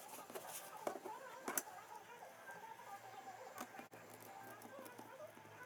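Faint bird calls, short chirps and clucks, with a few sharp clicks, the loudest about a second and a half in.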